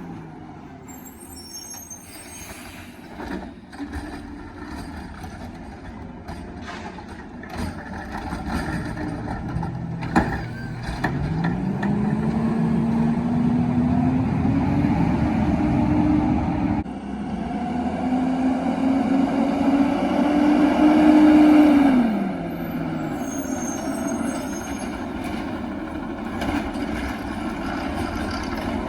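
Side loader garbage truck's engine revving up and holding while it works the hydraulics, twice in a row, then dropping back to idle about three-quarters of the way through, with a sharp knock just before the first rev.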